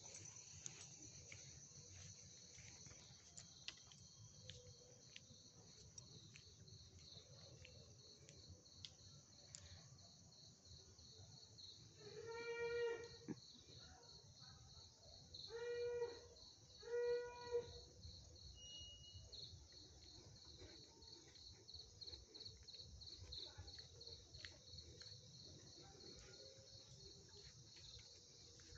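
Crickets trilling steadily and faintly in a high, pulsing chorus. About halfway through, three short calls from an animal stand out as the loudest sounds, the last two close together.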